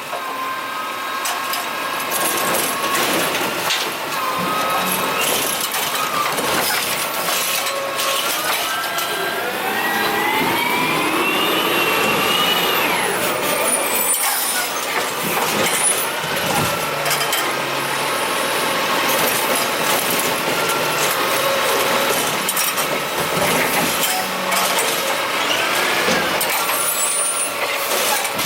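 Curbtender garbage truck running, its engine speed rising from about nine seconds in to a peak near thirteen and then dropping back, with scattered knocks.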